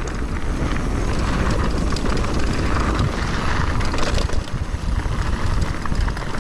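Mountain bike riding down a dirt trail: wind buffeting the GoPro's microphone with a heavy rumble, tyres rushing over dirt and rock, and frequent small rattles and knocks from the bike.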